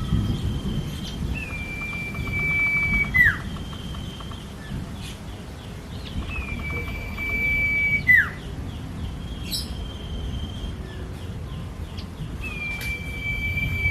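Common iora (cipo) singing: long level whistles, each held for nearly two seconds and then dropping sharply at the end, repeated about every five seconds. Shorter, higher whistles and soft chattering notes fill the gaps, over a low background rumble.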